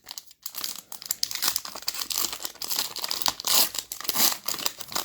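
Wrapper of a Donruss Optic basketball trading-card pack crinkling and tearing as it is ripped open, an irregular run of crackles.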